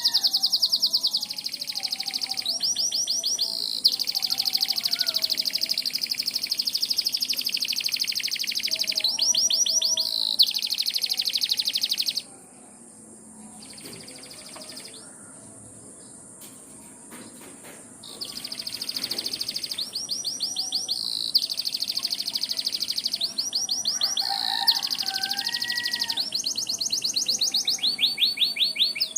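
Domestic canary singing: long rolling trills of very rapid high notes, stopping for about six seconds midway, then starting again. Lower, softer twittering notes come in briefly at the start and again near the end.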